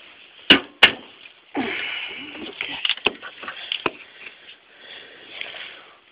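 Hand tools working on an old painted pipe: two sharp knocks in quick succession, then a couple of seconds of rough scraping broken by a few sharp clicks, fading to lighter scraping.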